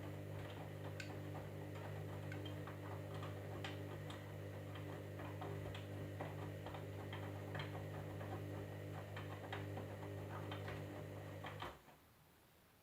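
Candy washing machine running with a steady motor hum and irregular light ticking, cutting off abruptly near the end.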